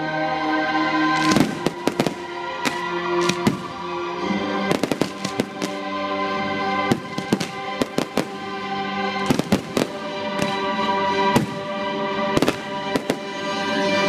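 Aerial fireworks bursting: an irregular run of sharp bangs and crackles, at times several a second, over music.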